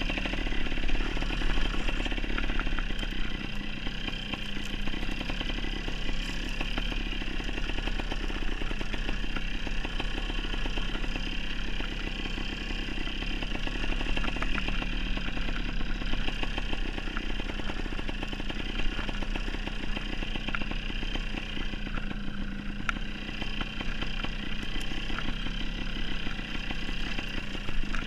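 Dirt bike engine running steadily as the bike is ridden slowly over rough ground, with no big revs.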